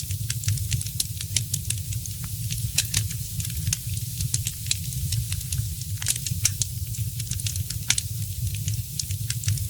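Wood fire crackling in a fireplace: a steady low rumble of flames under frequent irregular sharp pops and snaps, a few louder ones around three and six seconds in.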